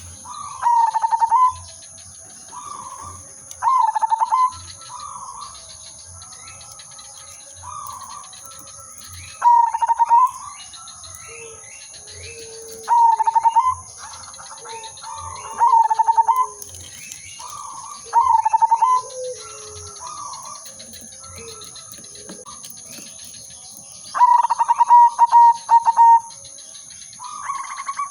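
Zebra dove (perkutut) singing its rapid, pulsing coo phrase, repeated about every three seconds, with fainter coos between the loud phrases. Near the end the phrases come in a longer, quicker run.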